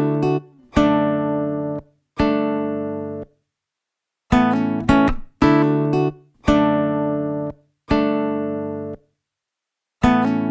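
Background music: acoustic guitar chords struck one at a time, each ringing and fading over about a second, with brief silent gaps between them.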